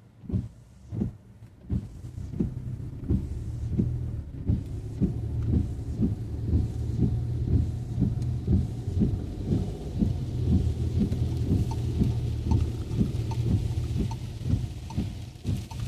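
Car driving in rain: a steady low engine and road hum with regular knocks about twice a second, and rain hiss building up about halfway through.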